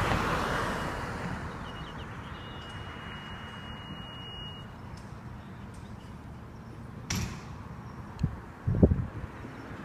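Fire engine starting its response out of the station. A steady high beep sounds for about three seconds over a low background rumble. About seven seconds in there is a sharp hiss, then two short low thumps near the end.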